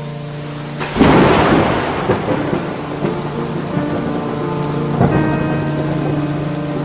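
Steady rain with a sharp thunderclap about a second in that rumbles away over the next couple of seconds, and a second, weaker crack of thunder about five seconds in.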